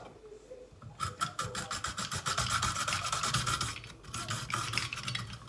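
Vegetables being shredded in a hand-cranked Saladmaster vegetable grinder: a rapid rasping scrape of the blade drum cutting through them. It starts about a second in, eases off briefly near four seconds, then picks up again.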